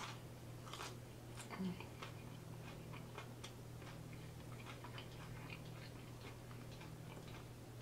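Close-miked chewing of a mouthful of coleslaw and fries: soft, irregular wet mouth clicks and smacks, over a faint steady low hum.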